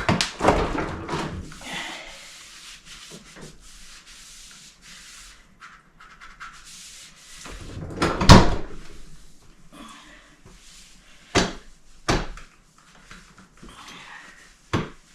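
Cloth wiping the outside of a refrigerator, a soft rubbing hiss broken by several knocks of handling the fridge, the loudest a little past the middle.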